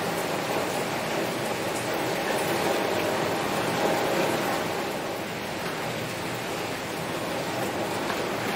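Heavy rain falling steadily on a window.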